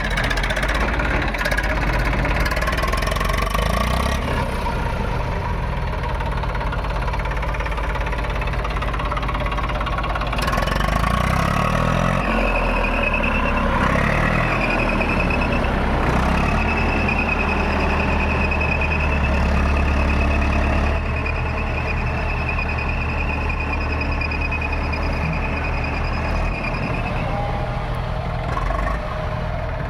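Heavy diesel machinery engine running steadily, with a thin high whine that holds from about a third of the way in until near the end.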